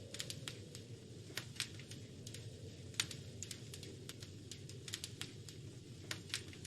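Wood fire crackling: irregular sharp pops and snaps, a few louder than the rest, over a low steady rumble of the flames.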